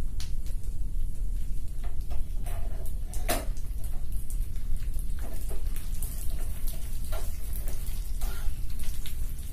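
Cashews and almonds frying in freshly added ghee in a non-stick pan, with scattered light crackles and pops as the lump of ghee melts, and a steel spoon stirring and scraping in the pan. One sharper click a little over three seconds in, over a steady low hum.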